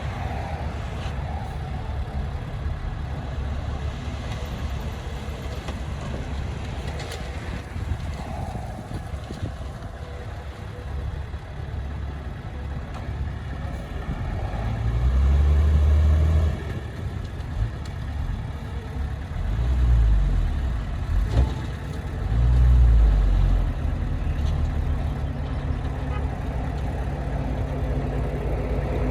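Heavy diesel engine of earthmoving machinery running steadily, with three short, much louder low surges in the second half.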